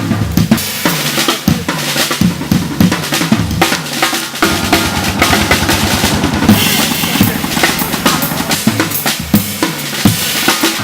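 Drum kit being played energetically, with bass drum, snare and cymbals; a fast snare roll runs from about four and a half seconds in, ending in a cymbal crash.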